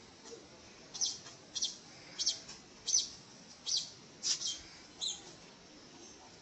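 A bird chirping: a run of about eight short, high, downward-sliding chirps at an even pace of a little under two a second, stopping about five seconds in.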